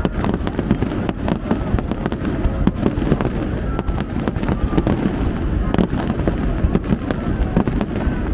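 Fireworks display: a dense run of bangs and pops over a continuous low rumble of bursting shells.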